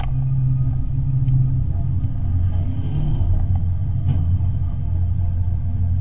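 Low, steady rumble of a car's engine, its pitch dropping a step about two seconds in.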